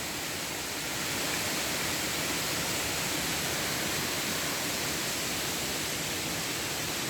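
Waterfall cascading down a stone weir, a steady rush of falling water.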